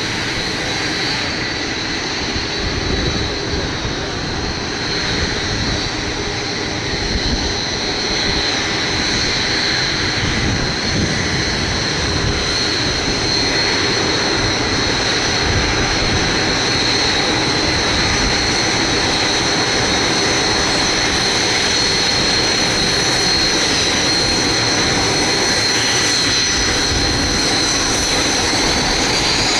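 BAE Hawk T1 jet engines running close by with a steady high whine over a broad rush, growing slightly louder after the first several seconds.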